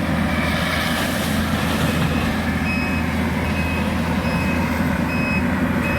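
Skid steer with a bush-hog brush cutter running steadily. From about two seconds in, its backup alarm beeps in short, evenly spaced pips, a little more than once a second, as it reverses.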